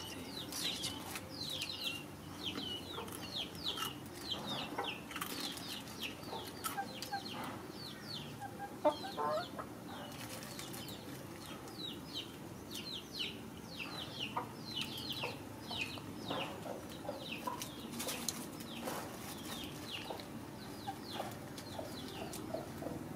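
Birds chirping: short, high, falling chirps repeating two or three times a second throughout, with one brief louder knock about nine seconds in.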